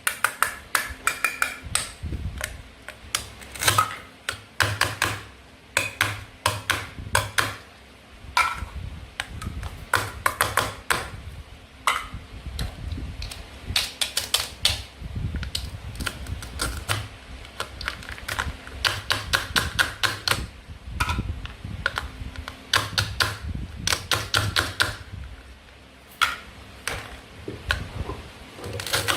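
A toy knife clicking and tapping on plastic play food and a cutting board, in quick runs of sharp clicks with short pauses between them.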